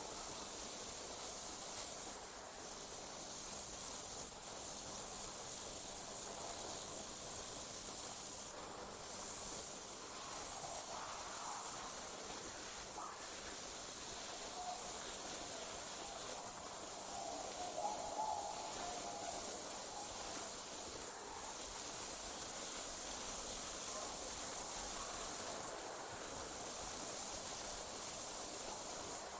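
Night insects, likely crickets, trilling in a steady high-pitched chorus that drops out briefly every few seconds before resuming.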